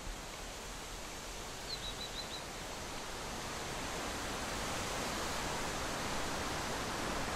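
Steady rushing wind noise on the microphone of a moving bicycle ride, growing slowly louder. About two seconds in, a bird gives a quick run of four high chirps.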